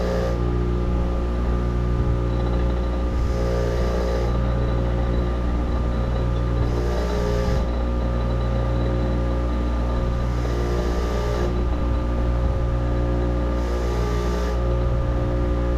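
An electric wire wheel running with a steady hum, with a short scrubbing hiss about every three and a half seconds as a part is held against the wheel by hand.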